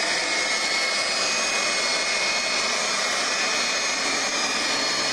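Leaf blower running steadily at full speed: a loud rush of air with a high whine.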